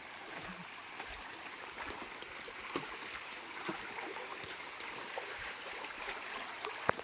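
A small rain-fed stream flowing: a steady rush of running water with scattered small splashes. A single sharp click near the end.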